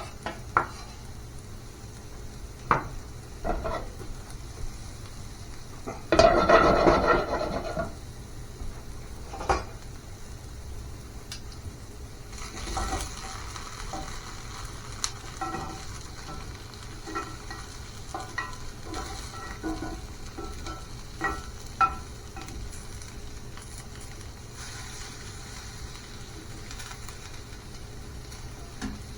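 Food sizzling in a pan while a utensil stirs, with sharp clinks and knocks of cookware and cutlery. A loud rush of noise lasts about a second and a half, about six seconds in.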